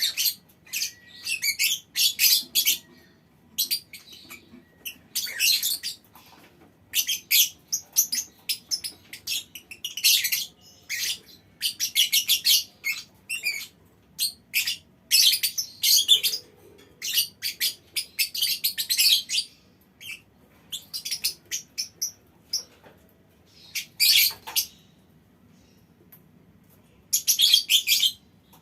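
A colony of lovebirds chattering in bursts of shrill, rapid chirps, some of them longer trilling runs, with short pauses between the bursts.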